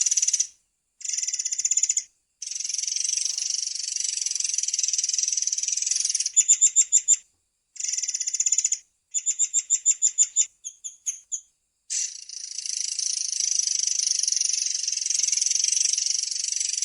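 Murai air (long-tailed sibia) song: long, rapid, high-pitched rolling trills. They break off abruptly into brief silences, and in the middle they give way to runs of separate sharp notes at about seven a second.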